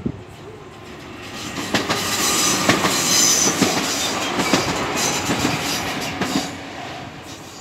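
Electric multiple unit passenger train passing close by. It builds up over the first two seconds, then runs loud with a high rushing hiss and several sharp wheel clacks over rail joints, and fades away near the end.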